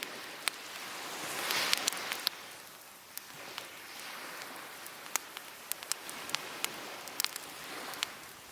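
Wood fire crackling with frequent sharp pops, over waves washing on the beach that swell loudest about a second and a half in and again more softly later.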